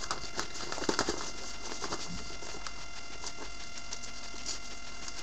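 Paper envelope being handled and opened: scattered rustles and crinkles, loudest about a second in, over a steady electrical hum.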